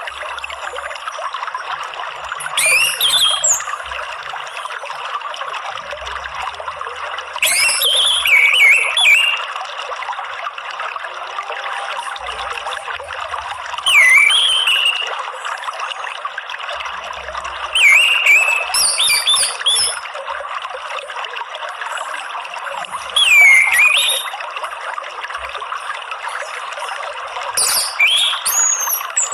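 Water trickling steadily, with an orange-headed thrush singing a short phrase of swooping notes about every five seconds, six phrases in all.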